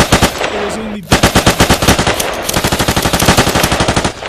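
Rapid automatic gunfire, about ten shots a second: a burst that breaks off about half a second in, then a long burst that stops shortly before the end.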